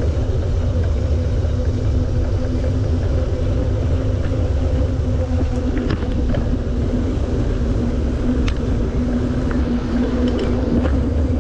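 Steady rumble of riding a bicycle: wind buffeting the camera's microphone and tyres rolling, with a faint steady hum and a few light clicks.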